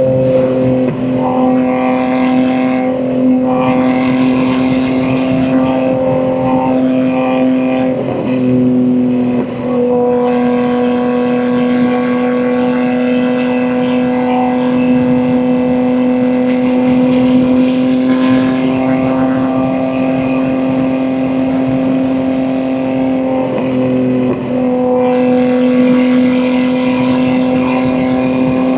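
BMW M2 G87's S58 twin-turbo inline-six, with catless downpipes and an equal-length mid pipe, droning at steady revs while cruising. The note briefly breaks and dips a few times, then picks back up.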